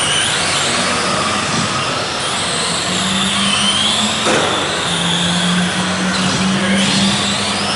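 Several electric RC on-road race trucks running laps together, their motors and gears making overlapping high whines that rise and fall in pitch as they accelerate and brake.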